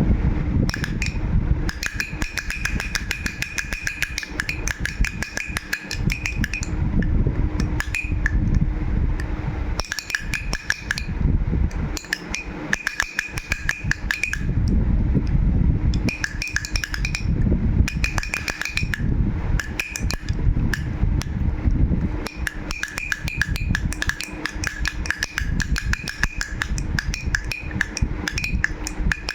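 Baby's toy rattle shaken continuously: fast, irregular rattling clicks with a steady high ringing tone in some stretches, over low handling rumble.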